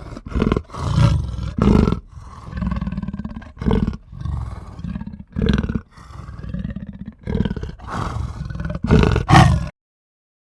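A large animal roaring and growling in a run of deep, rough calls that come one after another with short breaks, then cut off suddenly near the end.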